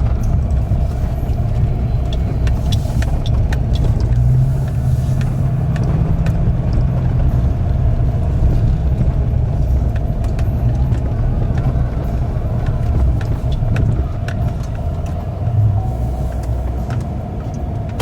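Pickup truck driving: a steady low engine and road rumble with a constant mid-pitched drone, and a few faint clicks and rattles.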